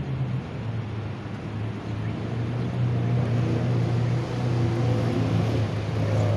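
Lamborghini Aventador's V12 engine running at low revs as the car rolls slowly up: a deep, steady drone that grows louder near the end as the car comes close.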